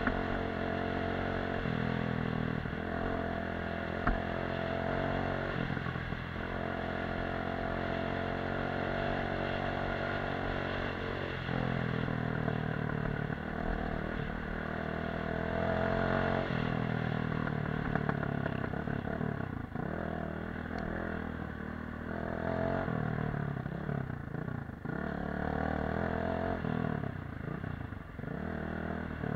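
Off-road motorcycle engine running under way, its note rising and falling over and over with throttle and gear changes.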